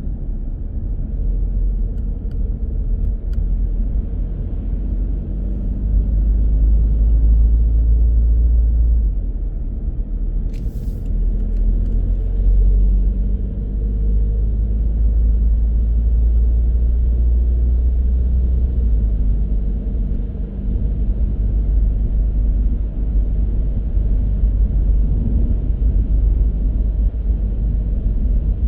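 A car driving, with steady low road and engine rumble that swells heavier in a couple of stretches, and one short sharp click about eleven seconds in.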